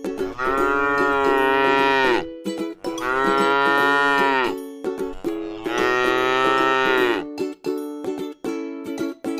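A cow mooing three times, each call long and drawn out and dropping in pitch at its end.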